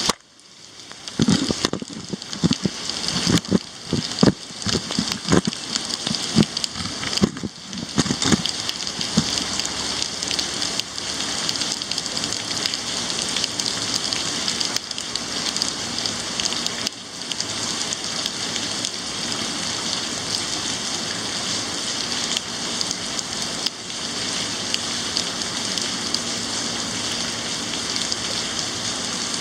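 Heavy rain falling with a steady hiss. After a brief dip at the start, a run of irregular sharp knocks comes through the first eight seconds or so, then the rain goes on alone.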